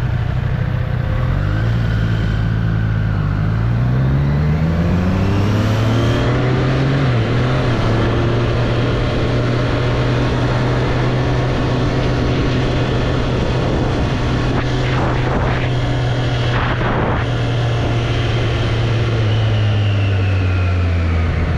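2024 Triumph Street Triple's three-cylinder engine under way, rising in pitch for several seconds as it accelerates, then holding steady, and dropping in pitch near the end as it slows.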